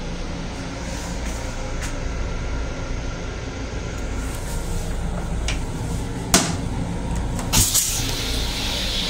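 Steady low rumble of a moving Long Island Rail Road M7 electric railcar, heard from inside the car. Two sharp clicks come a little after halfway, and a hiss starts near the end.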